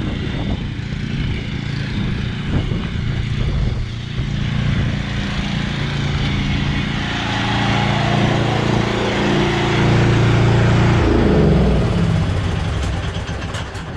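Cub Cadet XT1 riding lawn mower engine running steadily, then its pitch and level drop over the last few seconds as it winds down.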